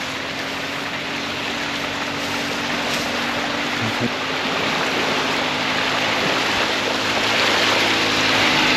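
Mini truck driving off-road over a muddy trail in four-wheel drive: the engine runs steadily under a loud wash of tyre and ground noise that grows louder toward the end.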